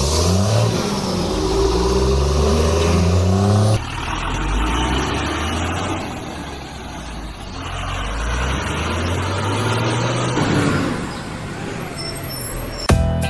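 Heavy vehicle engine sound, revving up and down, that cuts abruptly about four seconds in to a second, noisier engine sound, which drops away and then builds again. Music starts right at the end.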